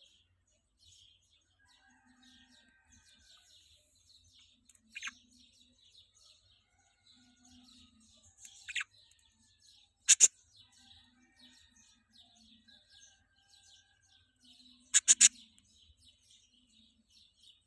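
Small birds chirping steadily, with loud sharp calls that drop in pitch breaking through several times, the last a quick run of three.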